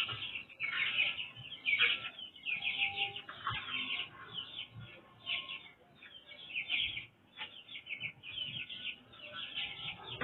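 Songbird chattering almost nonstop in quick, harsh, scratchy chirps, with a few faint knocks underneath.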